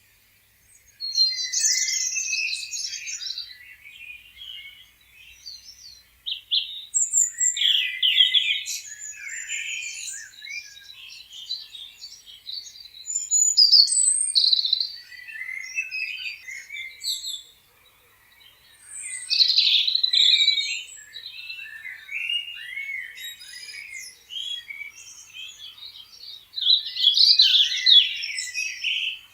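Several songbirds chirping and trilling in overlapping bouts, with loud flurries recurring every few seconds.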